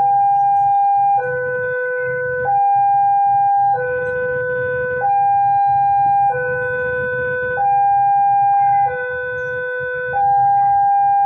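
Indonesian railway level-crossing alarm sounding. It is an electronic two-tone warning that alternates between a higher and a lower note about every second and a quarter, signalling that a train is approaching, over a low steady rumble.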